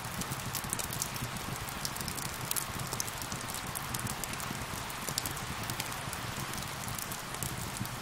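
Steady rain mixed with a crackling fire: an even hiss of rainfall with many small, sharp crackles and pops scattered through it.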